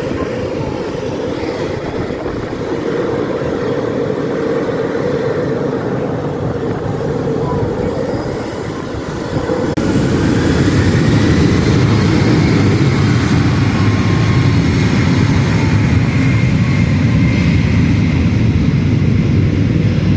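Airplane engine noise, loud and steady. It grows louder about halfway through, and a faint whine rises slowly in pitch.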